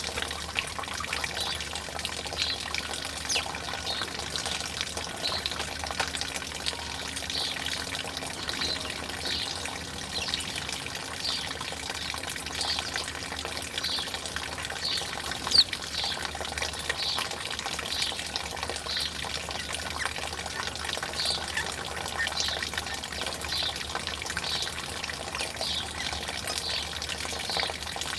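Steady running, trickling water with a small bird chirping over it about once a second; a single sharp tap comes about halfway through.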